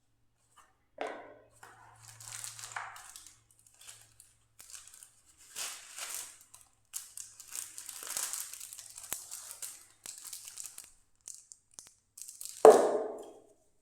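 Packaging being handled and unwrapped, with crinkling and tearing on and off for several seconds. Near the end comes a single louder knock.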